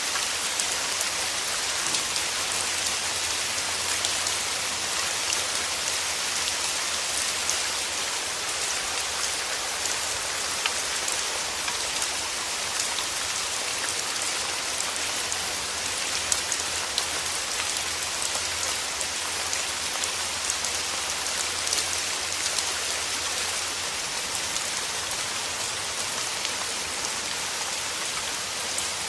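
Steady rain falling on a surface, a dense even hiss with many small drop ticks, plus a faint low hum underneath.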